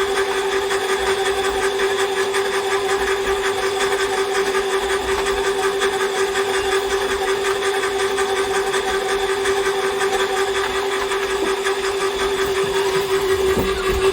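Electric cable-stripping machine running steadily with a constant hum, pulling in earth cable and stripping it. A few low knocks near the end.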